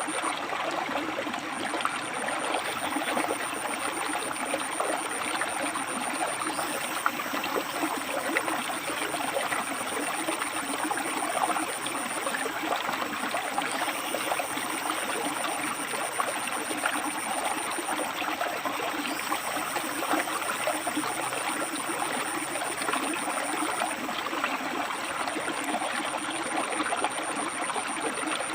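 River water rushing and splashing steadily over and between rocks. A thin high-pitched trill comes and goes above it in spells of a few seconds.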